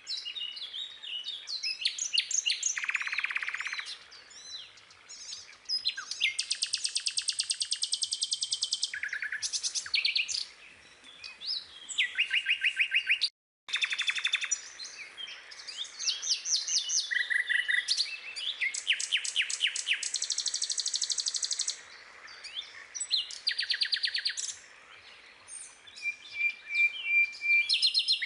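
Birdsong: rapid high chirps and trills, one after another, with a brief cut to silence about halfway through.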